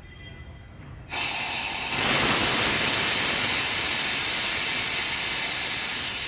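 Loud, steady hiss of air or steam escaping under pressure, starting abruptly about a second in.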